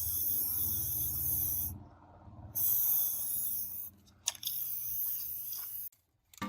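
Three bursts of loud hiss, each a second or so long, with short breaks between them, over a steady low hum.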